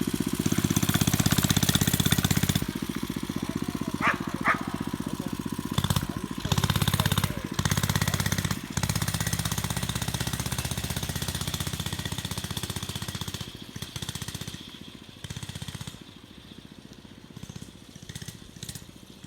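A small motorcycle engine running, getting louder and quieter as it is ridden, then fading away over the last few seconds. Two short, high-pitched sounds stand out about four seconds in.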